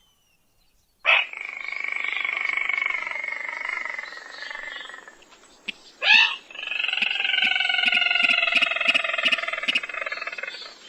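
Sintar crake lure-call recording: a long, rough churring call that starts about a second in and slides slowly downward, a short upward squeal about six seconds in, then a second long churring call.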